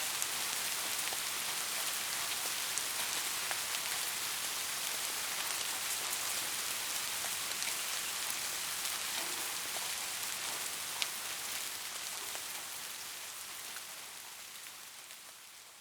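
Steady rain falling, a dense hiss with scattered ticks of individual drops, fading down over the last few seconds.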